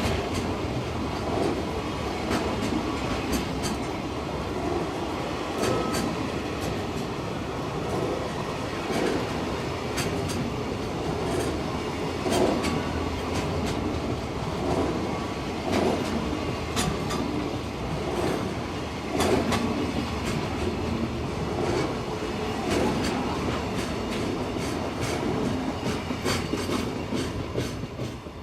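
Freight train wagons rolling past over the rails, a steady rumble with a regular clickety-clack of wheels over rail joints about every three seconds. The sound starts to fade near the end.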